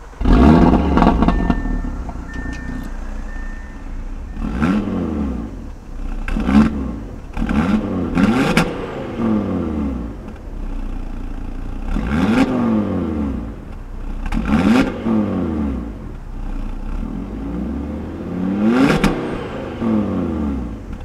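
Audi RS3 sedan's turbocharged five-cylinder engine being revved in place, about seven times, each rev climbing and falling back to idle, with the sound heard from behind at the exhaust.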